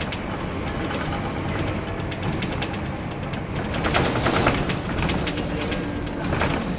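A worn Scania K230UB Wright Solar single-deck bus running, a steady low engine rumble with rattling and clicking over it. The noise swells about four seconds in and again near the end.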